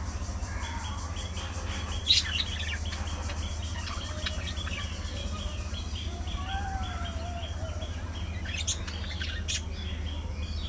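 A flock of budgerigars chirping and chattering, with a sharp loud chirp about two seconds in and more chirps near the end, over a steady low hum.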